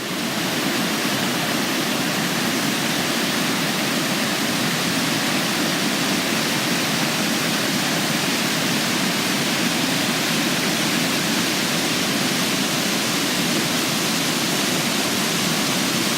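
A waterfall rushing steadily: the constant roar of river water pouring over the rock steps of Aysgarth Falls' middle tier, loud and even.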